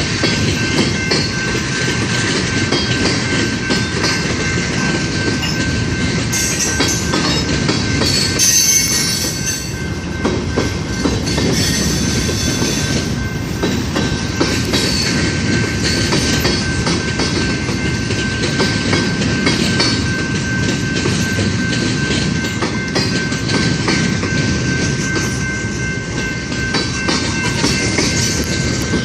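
Freight cars of a long mixed freight train rolling steadily past, wheels clacking over the rail joints, with a thin steady high-pitched squeal from the wheels throughout.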